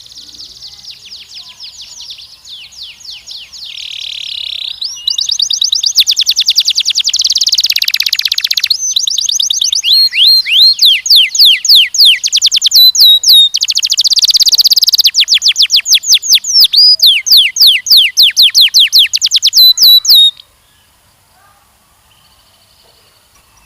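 Canary singing a long song of fast repeated high trills and rolling tours, growing louder over the first few seconds and stopping abruptly about twenty seconds in.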